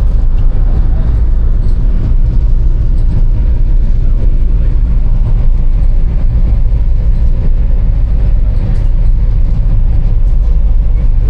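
A ferry's engines running steadily, heard on board as a continuous low drone.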